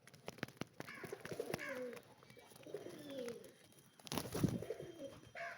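Birds calling: low notes that slide down in pitch, in two groups, among scattered clicks, with a louder noisy rustle about four seconds in.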